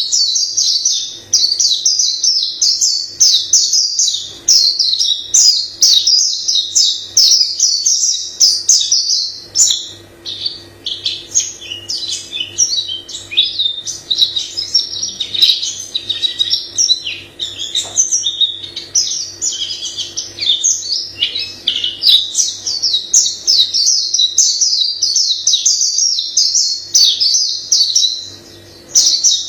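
White-eye songbird singing a long, unbroken run of rapid high twittering phrases. The notes become more varied about a third of the way in, with a brief pause near the end. A faint steady low hum runs underneath.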